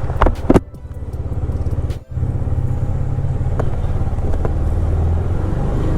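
KTM Duke 250's single-cylinder engine running under way, its sound dipping after two sharp knocks about half a second in and then building back up. The sound cuts out briefly about two seconds in, then runs steadily.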